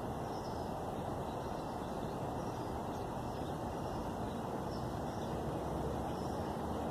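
Steady outdoor background noise with no distinct event, and faint short high chirps recurring about once a second.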